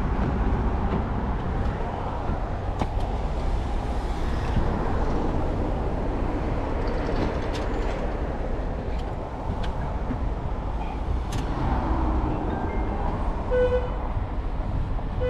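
Steady rumble of street traffic with a few sharp clicks scattered through it; near the end a brief steady pitched tone sounds.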